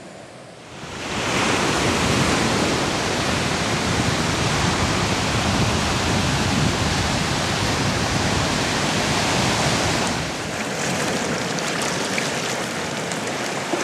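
Steady rush of ocean surf and wind, with no distinct individual events, starting about a second in and easing slightly near the end.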